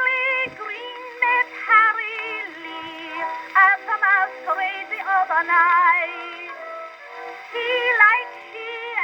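Acoustic-era Victor 78 rpm record from 1910 playing back at 76 rpm: a singer with a wide vibrato over a small orchestra. The sound is thin, with no bass.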